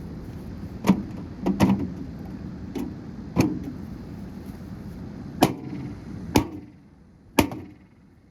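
About eight sharp, irregularly spaced knocks on the parts of a gutted microwave oven as it is struck while being broken apart.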